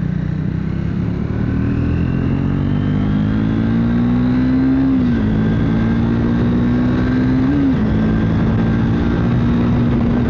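Triumph Speed 400's single-cylinder engine under hard acceleration, its pitch climbing and then dropping sharply twice, about five and seven and a half seconds in, as it shifts up a gear. After the second shift it holds a steady pitch.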